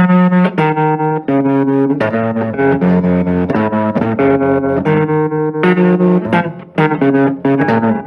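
Electric guitar played through a 1966 Fender Deluxe Reverb tube amp with its tremolo on: a blues phrase of single notes, the volume pulsing rapidly and evenly.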